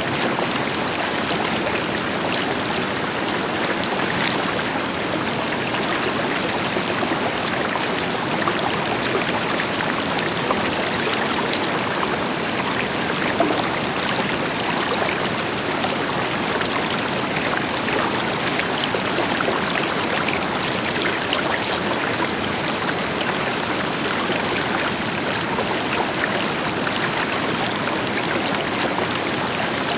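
River water flowing over rocks, a steady rushing with small splashes and trickles, and a distant waterfall adding a deeper rush underneath.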